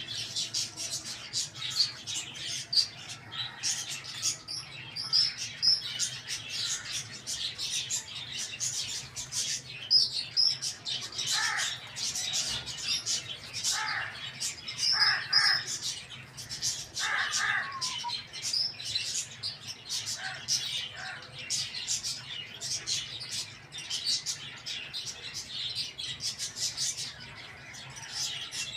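Many small birds chirping rapidly and continuously, with a few louder, lower short calls about halfway through.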